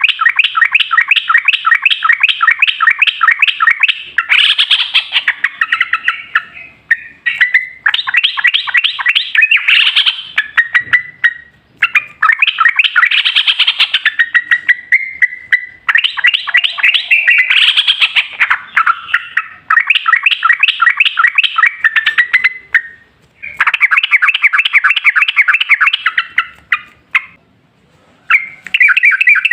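Yellow-vented bulbul (trucukan) singing its long rapid song: fast runs of repeated notes lasting several seconds each, with short breaks between the runs and a brief pause near the end.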